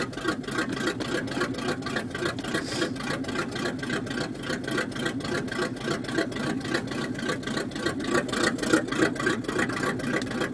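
1979 Chevrolet 350 small-block V8 running at a slow idle on a cold start, kept going after the carburettor was pumped, with an even, rapid pulsing throughout.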